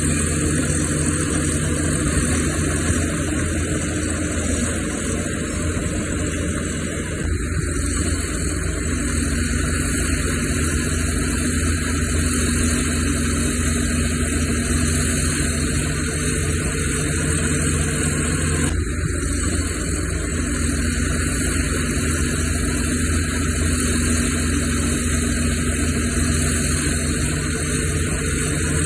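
Diesel engine of heavy earthmoving machinery running steadily, its note shifting slightly a couple of times, with a constant high hiss behind it.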